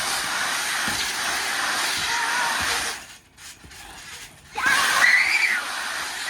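Steady hiss of water spraying, which cuts out for about a second and a half midway and then comes back, with a child's high squeal on top of it near the end.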